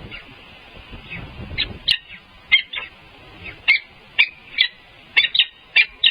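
Eagles calling: a run of short, high chirps, about a dozen, starting about one and a half seconds in and coming louder and closer together in the second half.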